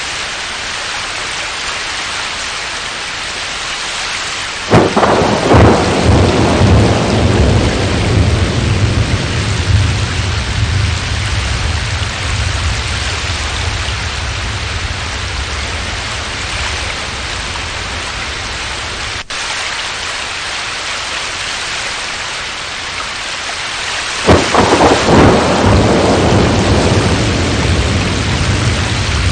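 Thunderstorm: steady heavy rain, with two claps of thunder, one about five seconds in and one near the end, each a sudden crack that rolls on as a long low rumble.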